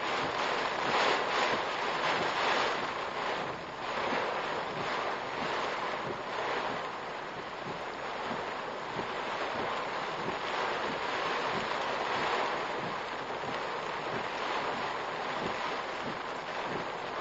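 Typhoon wind and rain beating on a car, heard through a dashcam's microphone: a steady rushing hiss that surges in gusts during the first few seconds.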